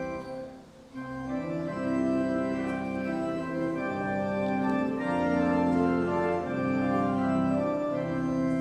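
Church organ playing slow, sustained chords that change about once a second, after a short pause near the start. It is the instrumental introduction to a hymn.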